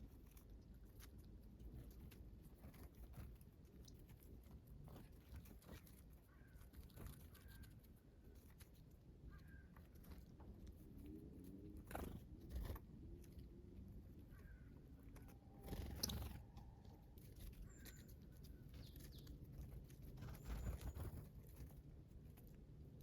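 Small wild birds: a few faint, short chirps and occasional brief taps and crunches over a quiet outdoor background.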